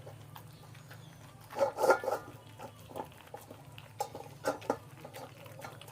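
A Labrador eating, with irregular crunching and clicking chomps of its food. A louder cluster of chomps comes about a second and a half in. A steady low hum runs underneath.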